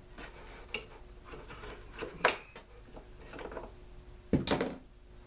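Clicks and knocks of small plastic and metal leaf-blower parts being handled and set down, with a louder knock about two seconds in and a sharp knock and brief clatter near the end.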